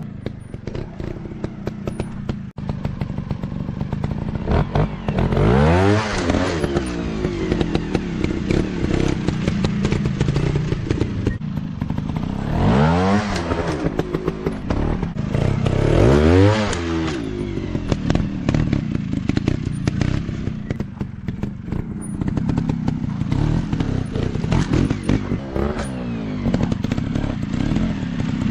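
Dirt bike engines running with the throttle blipped in bursts, the pitch sweeping up and back down about three times, amid clattering and thumps.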